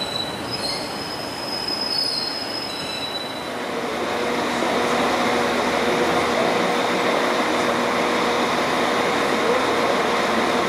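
High-pitched wheel squeal from a train on curved track for the first few seconds. Then a Manchester Metrolink tram pulls away, its running noise louder, with a steady hum.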